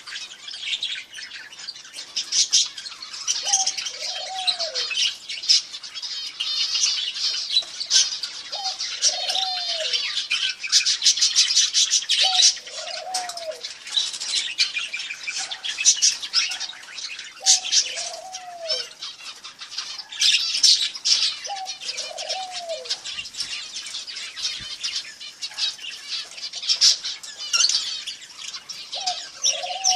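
Many small birds chirping without a break. A lower call sliding down in pitch recurs six times, about every four to five seconds.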